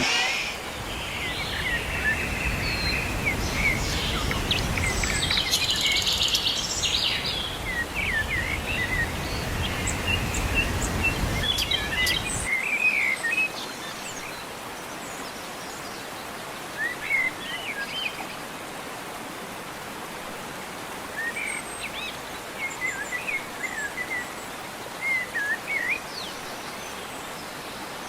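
Steady rushing of a waterfall with small birds chirping over it. A deep rumble runs under it for the first twelve seconds or so and then stops abruptly.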